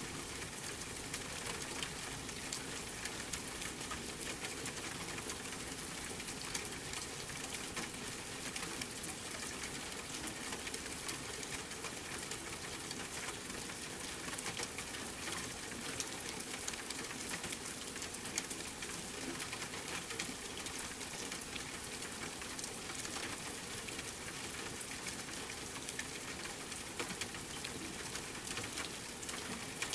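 Steady rain mixed with a crackling wood fire: an even hiss of rain with many small sharp crackles and drips scattered through it.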